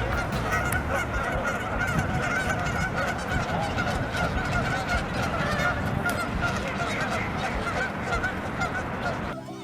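A huge flock of snow geese calling all at once: a dense, unbroken din of overlapping honks. It cuts off abruptly near the end.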